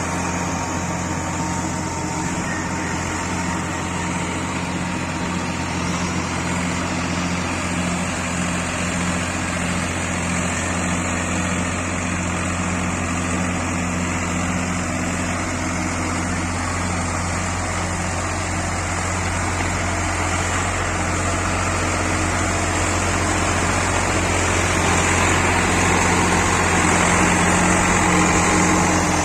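ACE tractor's engine running steadily with an even low hum, growing a little louder near the end.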